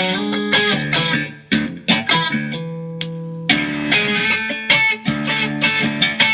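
Mexican-made Fender Stratocaster electric guitar, freshly set up and tuned to drop D, being played: quickly picked notes and chords, with one chord left to ring for about a second near the middle before the picking resumes.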